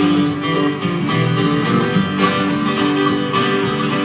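Up-tempo country-gospel band intro led by strummed acoustic guitar, with a bluegrass feel and a steady beat.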